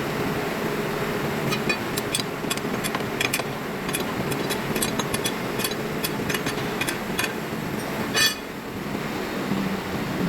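A machine running steadily, with scattered small metallic clicks and one sharp ringing clank about eight seconds in.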